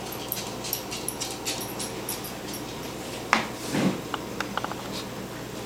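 A dog whimpering, over a steady low hum, with scattered short clicks and a sharp knock about three seconds in.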